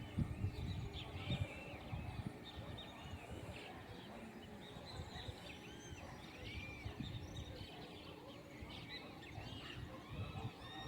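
Many birds chirping together in a dense chorus of short, overlapping calls that rise and fall, over a low rumble.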